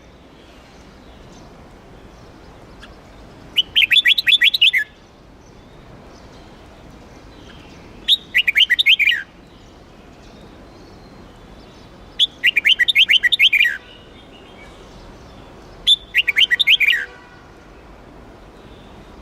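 Red-whiskered bulbul singing its competition song: four bursts of quick, falling notes, each about a second long, coming about every four seconds.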